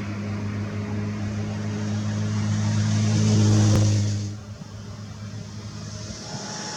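A steady low engine-like hum with hiss, swelling louder, then dropping away sharply about four seconds in.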